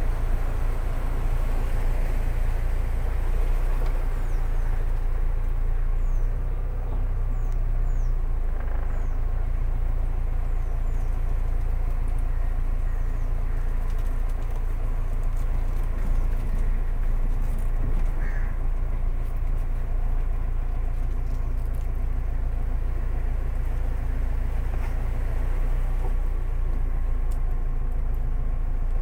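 Car engine running steadily at low speed, a low, even rumble heard from inside the cabin. A few short bird chirps sound in the first third.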